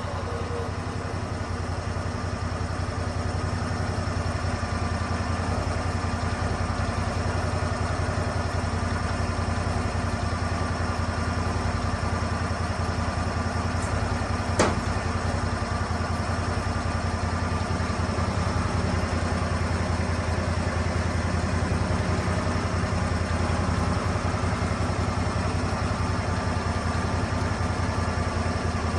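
Engine of a Lucas Mill 10-30 swing blade sawmill running steadily, growing a little louder over the first few seconds. One sharp click about halfway through.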